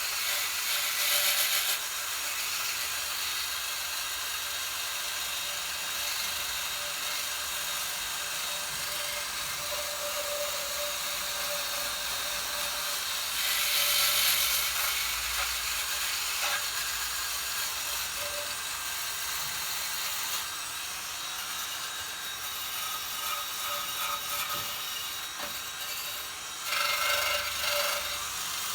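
A small power tool runs with a wire wheel scrubbing rust off the metal of a Tecumseh 6.5 hp engine: a steady motor whine under a gritty hiss. It grows louder for brief spells about a second in, about halfway through, and near the end.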